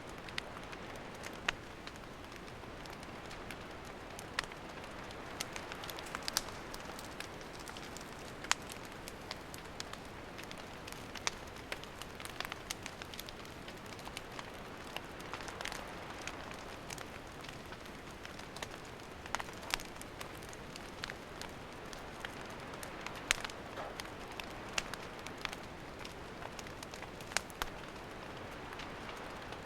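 Wood campfire burning, a steady soft hiss broken by irregular sharp crackles and pops from the burning wood.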